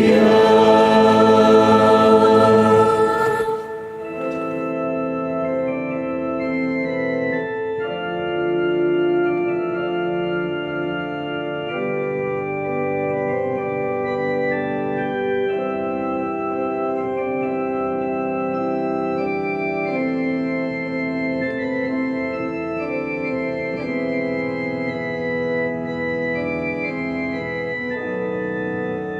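A choir's sung chord ends about three and a half seconds in, and an organ takes over with an interlude of slow, sustained chords.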